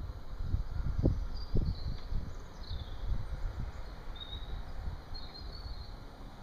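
Birds chirping in short, separate calls several times, over irregular low thuds and rumble, loudest in the first two seconds.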